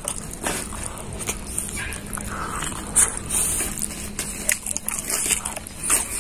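Close-up eating sounds: a man chewing a mouthful of mushroom curry and rice, with a scatter of wet lip smacks and mouth clicks.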